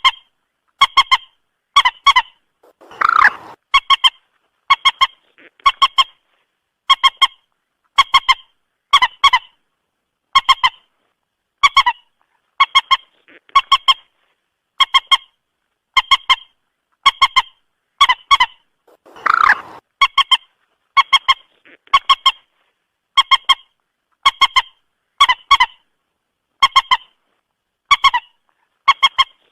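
Common moorhen calls: short honking notes about once a second, many in quick pairs, with a longer, harsher call twice, about 16 seconds apart. This is a repeating playback recording used as a trapping lure.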